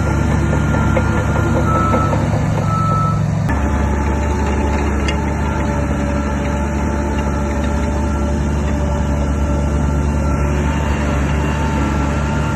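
Heavy diesel earthmoving equipment running steadily, with a reversing alarm beeping in short repeated tones. The engine sound shifts abruptly about three and a half seconds in.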